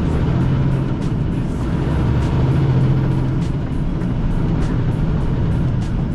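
Semi-truck's diesel engine and road noise, a steady low drone heard inside the cab while driving.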